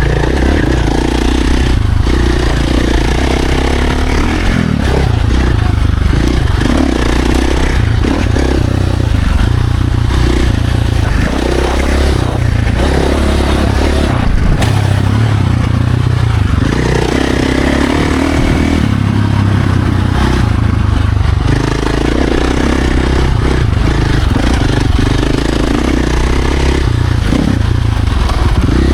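Dirt bike engine running hard on a trail, its revs rising and falling every few seconds with throttle and gear changes, over rough noise from the bike and terrain.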